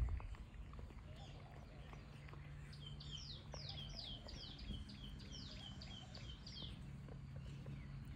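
A bird singing a quick run of about a dozen falling whistled notes, from about three seconds in until nearly seven seconds, over a faint steady low hum. A short thump comes right at the start.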